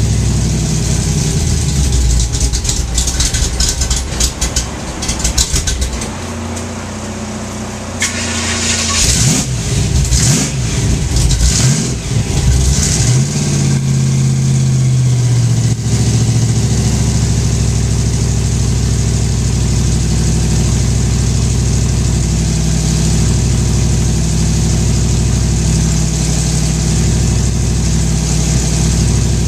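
Supercharged small-block Chevy V8 of a Pro Street Nova drag car running through open exhaust. It idles roughly at first, is revved several times from about eight to thirteen seconds in, holds a raised idle briefly, then settles into a steady idle.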